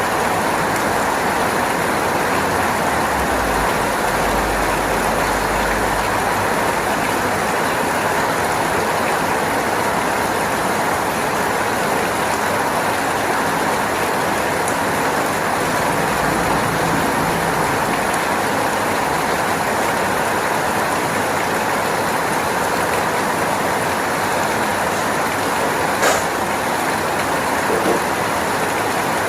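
Steady rain falling, an even continuous hiss, with a couple of brief sharp ticks near the end.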